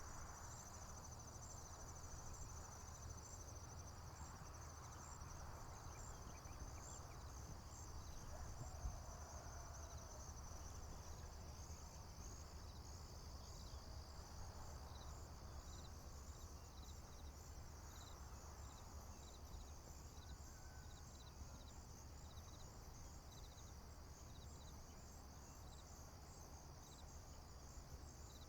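A chorus of crickets and other insects trilling steadily and high-pitched. From about halfway through, a separate insect chirps regularly, about twice a second. A low steady rumble runs underneath.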